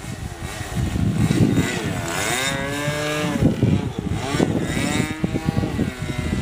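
Two-stroke .46-size glow engine of an RC model airplane running at high revs, its whine dipping in pitch about two seconds in and climbing again as the plane passes or the throttle changes. Wind buffets the microphone throughout.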